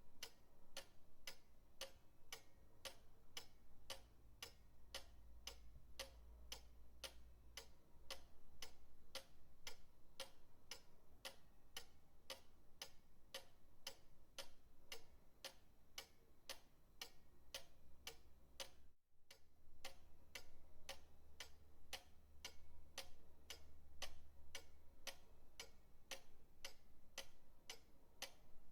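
Pendulum clock ticking steadily, about two even ticks a second, over a faint low rumble, with a brief break in the sound about two-thirds of the way through.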